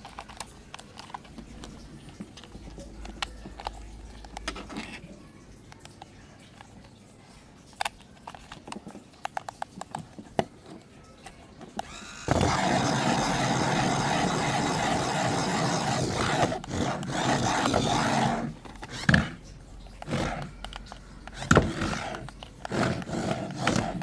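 Light plastic clicks and handling knocks, then about twelve seconds in a battery-powered toy switches on and plays loud electronic sound effects through its small speaker for about six seconds, followed by several shorter bursts.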